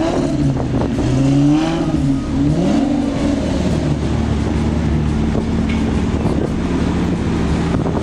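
Car engine revved in short rises and falls of pitch for the first few seconds, then running at a steady pitch.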